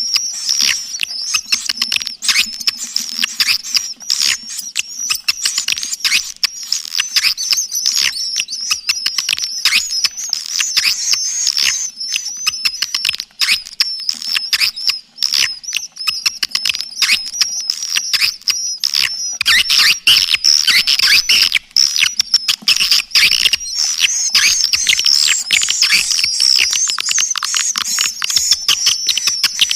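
Swiftlet lure call recording: a dense, continuous twittering of many high-pitched swiftlet chirps and clicks overlapping in rapid succession, the kind of calling sound played to draw swiftlets into a swiftlet house. It grows fuller and louder about two-thirds of the way through.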